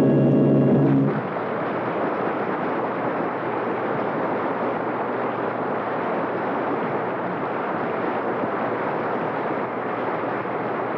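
A music cue ends about a second in, giving way to a steady, even rushing rumble: a radio sound effect of a train running.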